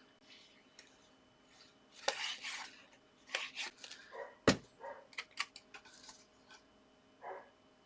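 Paper and card being handled and pressed down on a craft desk: irregular rustling, light clicks and taps, with one sharp knock about four and a half seconds in.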